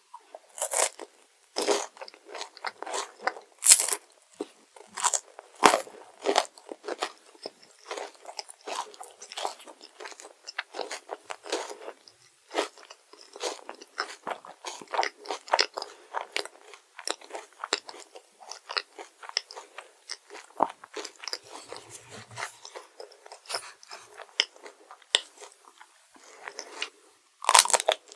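A person chewing and crunching crisp chocolate dessert close to the microphone, a steady run of crackly crunches with a few louder bites early on and again near the end.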